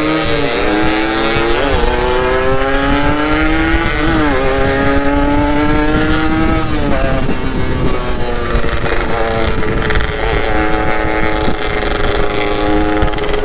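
Yamaha RX-King single-cylinder two-stroke motorcycle engine under way, pulling up through the gears. Its pitch climbs and drops sharply at each shift, about three times, then holds fairly steady at a cruise.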